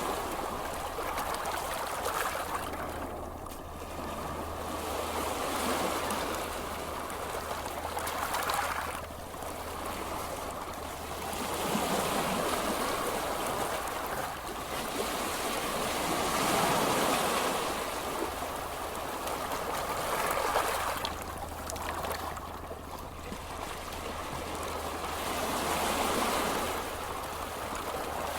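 Ocean waves on a beach: a continuous water noise that swells and eases every few seconds as waves wash in and draw back.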